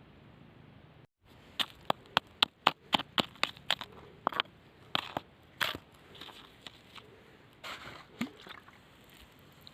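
Stones clicking and knocking together, a quick run of sharp clicks about four a second that thins out to a few scattered knocks.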